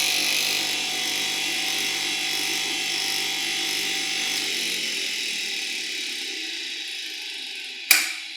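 Electric motor of a 1976 bench polisher running with a steady whirring hiss, then a sharp click near the end as it is switched off and starts to wind down.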